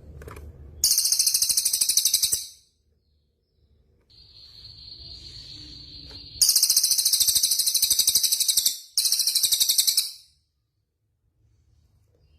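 Songbird song: three very high, rapid trills, each one to two seconds long, with a single steady high whistled note held for about two seconds between the first and second.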